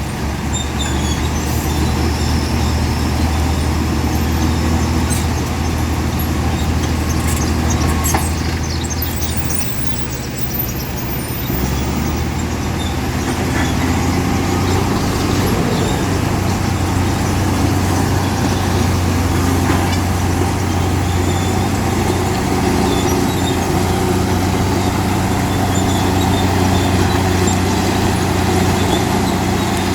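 Komatsu D65P bulldozer's diesel engine running steadily under load while pushing stone, with a few light clanks about a third of the way in.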